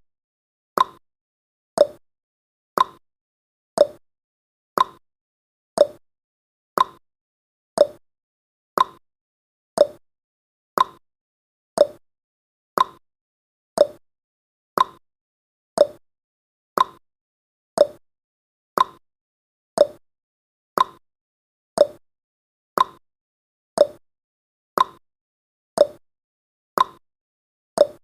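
Countdown timer's ticking sound effect: a short, sharp click once every second, evenly spaced, each dying away quickly.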